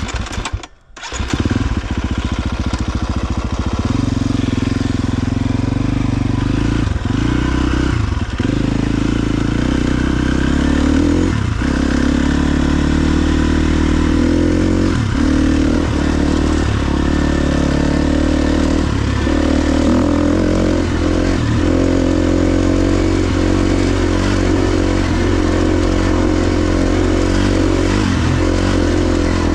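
KTM 350 XC-F dirt bike's single-cylinder four-stroke engine under way, pulling off after a brief quiet moment at the start. Its note drops briefly every few seconds as the throttle is rolled off or gears change.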